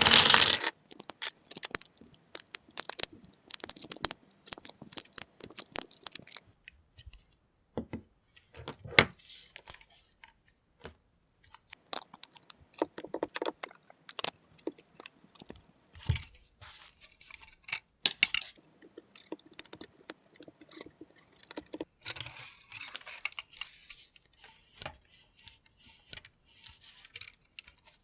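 Plastic LEGO pieces clicking and rattling as they are handled and snapped together by hand, in irregular runs of sharp clicks with short pauses.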